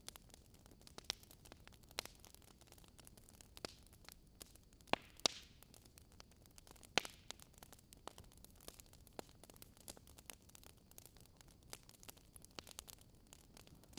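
Wood fire crackling: a faint steady hiss with irregular sharp pops, the loudest a close pair about five seconds in and another about seven seconds in.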